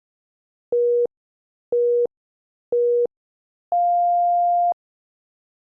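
Workout interval timer beeping: three short beeps about a second apart, then one longer, higher beep. This is the countdown that marks the end of an interval.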